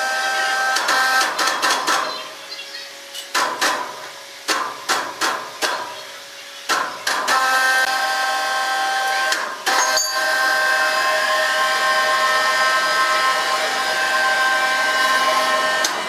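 Sawmill saw running with a steady high whine, broken about three seconds in by a string of sharp knocks and hammer-like blows that lasts several seconds. Then the whine comes back steadily.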